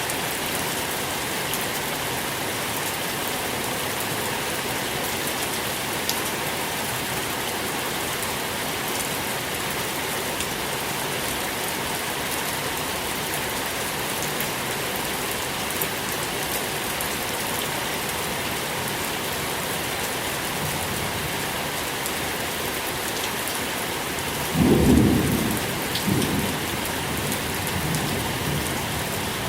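Steady rain falling on a surface. Near the end a clap of thunder breaks in, with a second crack a second later, then rumbles away.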